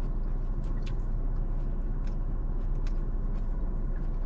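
Steady low hum of a running car heard from inside the cabin, with a few faint small clicks over it.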